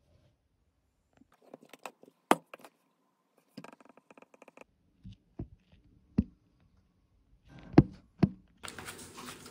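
Scattered knocks and clicks of things being handled, the loudest about two seconds in and again near eight seconds in, with a steady hiss starting near the end.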